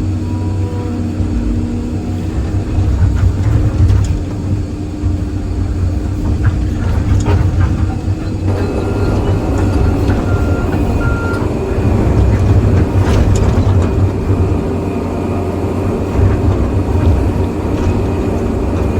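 Excavator's diesel engine running steadily under load, its note filling out about eight seconds in, with scattered knocks and clanks.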